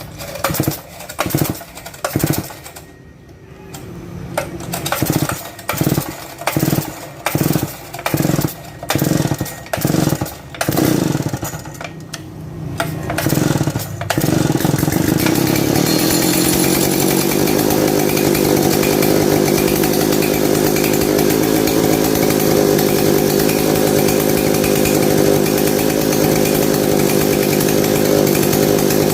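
Octagon 070 large two-stroke chainsaw engine blipped repeatedly, about a dozen short bursts of revs under a second apart. About halfway through it is opened up and held at a steady high speed to the end.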